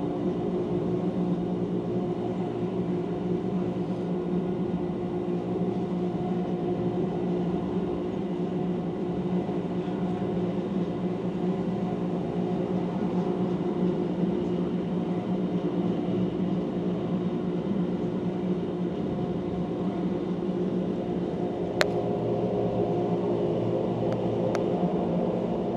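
Wengen–Lauterbrunnen rack-railway train running steadily, a constant hum of several low tones over the noise of the ride. A single sharp click sounds near the end, followed by a couple of faint ticks.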